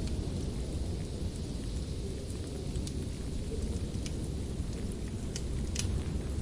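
Wood fire crackling in a fireplace: a steady low rumble of the burning fire with scattered sharp pops, the loudest one about a second before the end.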